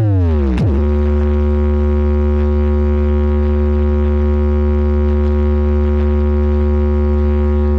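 Electronic bass test tone for checking speakers: a quick downward sweep in pitch in the first second, then a steady, buzzy low tone held for several seconds.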